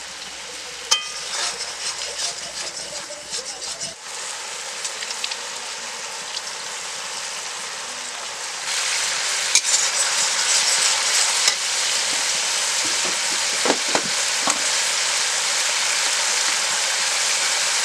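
Onion-and-yogurt masala sizzling in a kadai while a steel spatula scrapes and stirs it. About nine seconds in, the sizzle turns suddenly louder and steady as water is added to the hot masala and steam rises.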